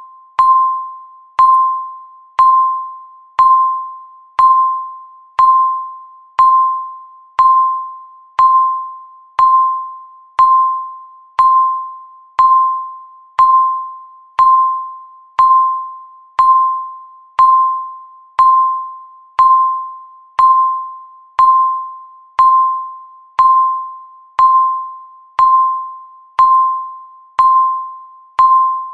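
Countdown timer beeping once a second: a short, sharp electronic tone that fades quickly after each strike, repeating evenly.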